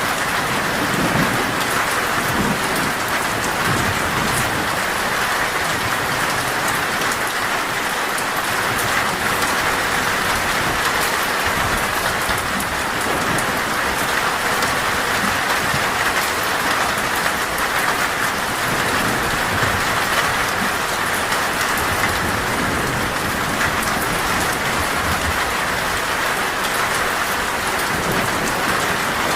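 Heavy torrential rain drumming steadily on a metal roof, with low thunder rumbling faintly at times underneath.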